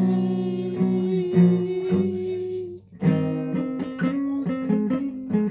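Guitar playing, with notes left ringing and a brief pause about three seconds in, then a run of plucked notes.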